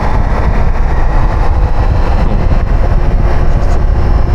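Motorcycle riding along at speed: steady wind rush and buffeting on the rider's microphone, with the engine running underneath.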